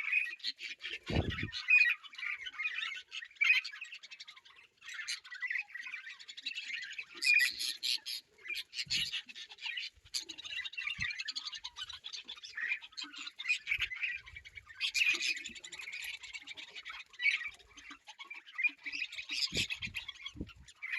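A group of birds calling continuously, many squawks and chirps overlapping, with short lulls about five and ten seconds in. A brief low thump about a second in.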